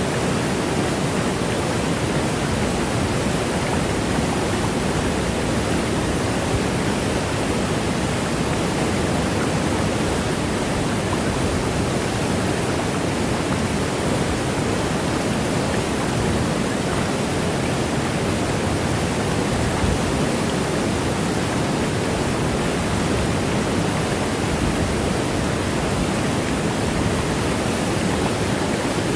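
Small waterfall with water pouring and splashing in a steady, unbroken rush.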